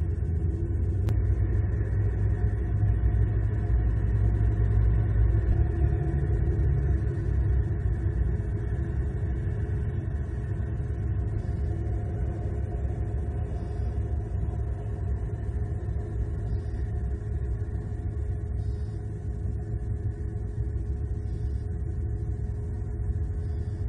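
Steady low outdoor rumble picked up by the nest-cam microphone, strongest in the deep bass, with no distinct events.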